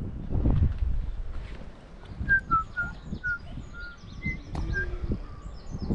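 A songbird singing a run of short whistled notes, about eight in quick succession, over low rumbling and knocks close to the microphone.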